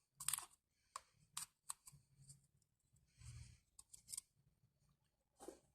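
Faint clicks and short scraping rustles of hands prying the old rubber O-ring seal off the oil filter housing cap.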